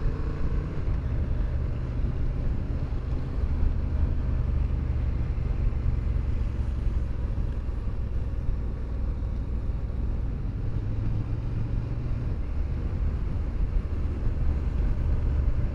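Motorcycle engine running steadily while riding: a low drone whose note shifts a little about eleven seconds in.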